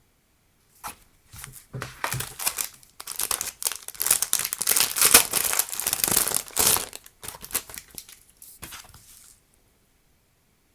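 Packaging crinkling and rustling as it is handled and opened, a dense run of crackles that is loudest in the middle and stops about a second before the end.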